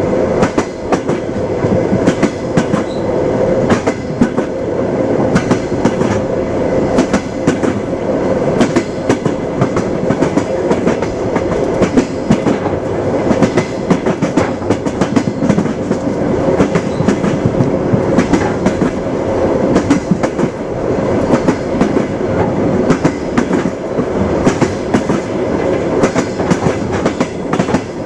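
Train wheels clattering on the rails: a steady rolling rumble with frequent sharp clacks over rail joints.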